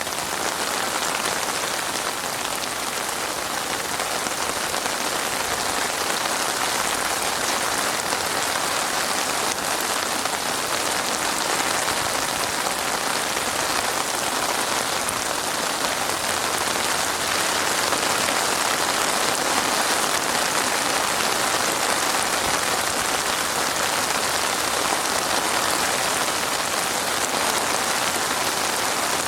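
Heavy rain falling steadily, a constant dense hiss of raindrops on surfaces.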